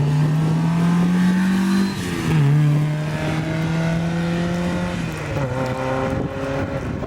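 Rally car engine accelerating hard on a special stage. The note climbs, drops sharply at a gear change about two seconds in, holds steady, then falls again after about five seconds.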